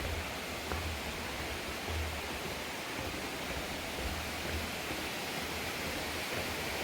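Steady rushing of a mountain stream over rocks, an even hiss of falling water, with a few brief low rumbles of wind on the microphone.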